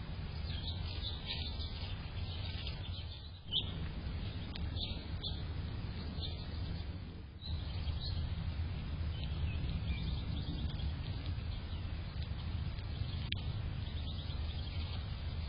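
Small birds chirping and tweeting in quick, scattered calls over a steady low background rumble, with a sharp click a few seconds in.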